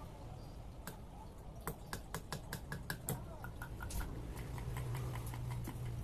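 Irregular light metallic clicks and taps of small parts and hand tools being handled, over a steady low hum.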